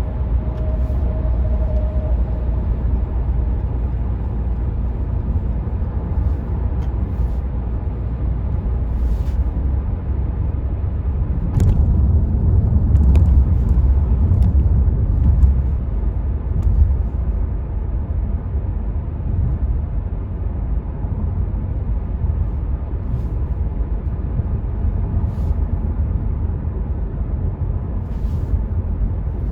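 Interior cabin noise of a 2019 Renault Megane 4 1.5 dCi diesel cruising on a motorway at about 80 km/h: a steady low road and tyre rumble, swelling louder for a few seconds around the middle.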